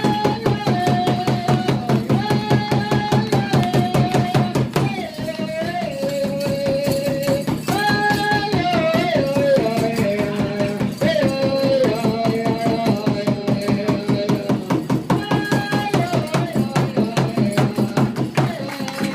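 Live drumming and singing: a fast, steady drumbeat under a chanted melody of long held notes that step up and down. The drum stops shortly before the end.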